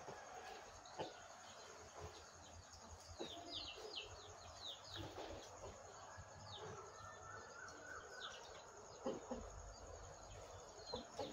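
Faint outdoor ambience with birds chirping: a run of quick, falling chirps in the middle, over a faint steady high whine.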